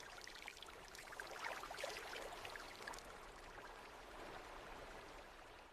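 Faint stream flowing, water babbling and trickling.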